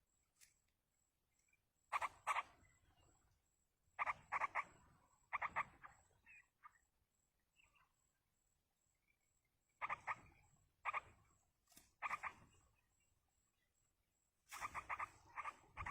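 Yellow-vented bulbul calling: short bursts of three or four quick, rasping notes, repeated about seven times with pauses between.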